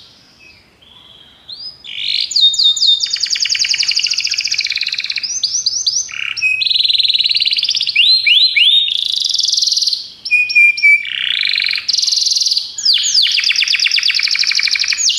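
Domestic canary singing: after a brief pause, a continuous song of rapid trills and rolls, with phrases changing speed and pitch every second or two.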